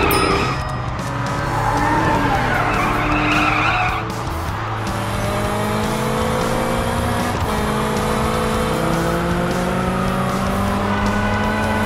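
Cartoon sound effects of racing cars: tyres squealing for about the first four seconds, then car engines revving with a slowly rising pitch, over background music.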